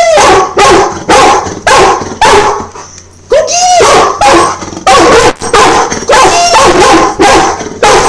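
Dog barking loudly and repeatedly, about two barks a second, with a couple of longer yelping calls that rise and fall in pitch, about three and a half and six seconds in.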